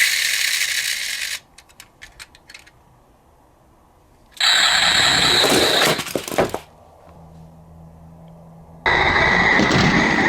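Miniature toy cars crashing: three loud bursts of clattering, rattling crash noise, one at the start, one about four seconds in and one near the end, with a few sharp clicks after the first.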